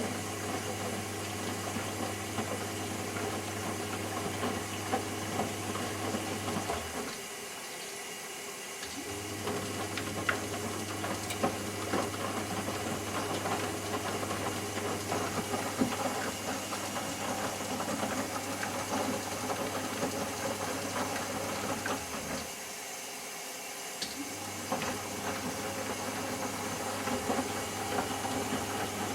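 Eudora Sparmeister 702 washing machine turning its drum during the wash-liquor cool-down: a steady motor hum with water and laundry sloshing, stopping for about two seconds twice as the drum pauses to reverse.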